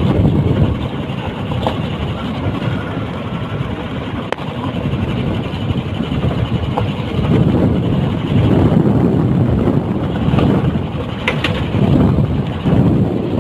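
Motorcycle running on the move, its engine noise mixed with wind rumbling on the microphone and surging in strength.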